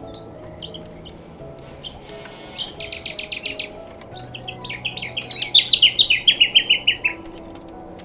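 Wild birds calling: a quick run of short, evenly spaced notes about three seconds in, then a louder string of notes stepping down in pitch from about four and a half to seven seconds. Soft background music with held low notes plays underneath.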